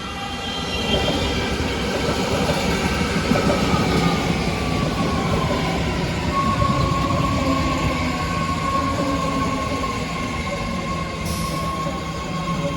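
BART Fleet of the Future train pulling into the station. Its propulsion gives several tones over a rumble, sliding down in pitch as it slows, then settling into a steady whine. There is a brief hiss about eleven seconds in.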